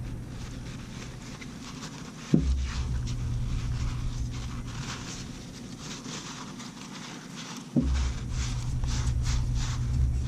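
Scraping, rustling and light ticking of hands working on a brake caliper, with two sharp knocks, one about two seconds in and one near the end, each followed by a low hum.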